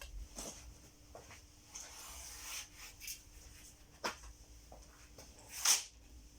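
Thick concrete mix being scooped and packed into a fireplace mould: scattered short scrapes and knocks, the loudest a sharper scrape shortly before the end.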